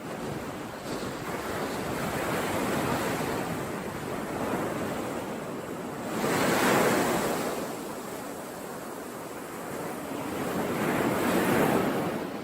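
Ocean surf: waves breaking and washing in, rising and falling in three swells, the strongest about halfway through and near the end.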